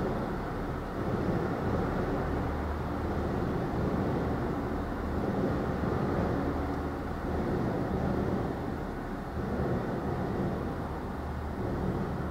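Irish Rail 29000 class diesel multiple unit train passing at a level crossing: a steady low engine hum and wheel-on-rail noise, easing slightly near the end as the last car clears.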